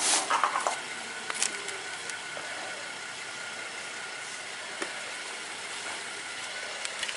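Car engine running, heard from inside the cabin as a steady hum, with a few knocks and rattles in the first second.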